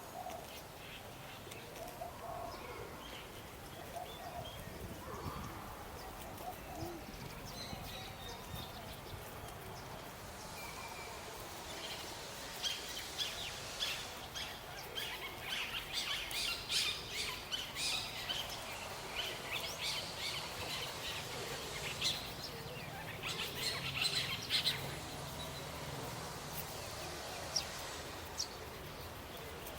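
Small birds chirping and twittering in rapid short high notes, busiest through the middle of the stretch, over a steady low outdoor background.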